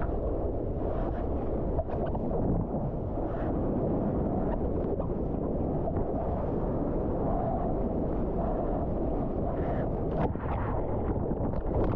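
Wind buffeting the microphone over a steady low rumble of ocean water and surf.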